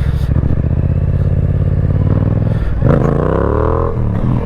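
Yamaha MT-07's parallel-twin engine through a Yoshimura exhaust, running steadily, then revving up hard about three seconds in and dropping off just before four seconds: a throttle burst to lift the front wheel into a wheelie.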